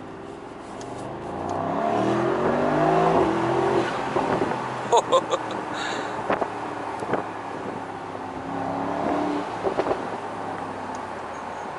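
Mercedes-AMG SL 63's twin-turbo 4.0-litre V8 accelerating hard, its note rising through the revs, heard from the driver's seat. About five seconds in, a few loud exhaust pops and crackles come on the lift-off, and another short run of crackles follows near the end.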